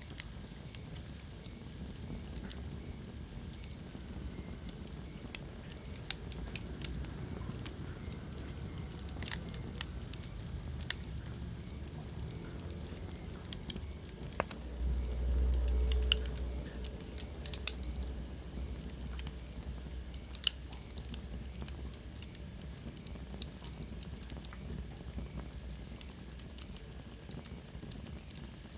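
Wood fire burning in a fireplace: a low steady rumble of flames with scattered sharp crackles and pops, and a brief swell of deeper rumble about halfway through.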